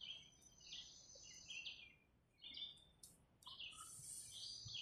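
Faint birds chirping: several short, high calls.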